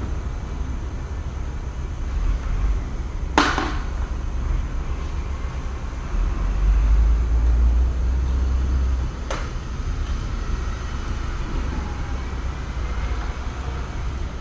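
A steady low rumble that swells for a few seconds in the middle, with two sharp knocks about six seconds apart, the first the louder.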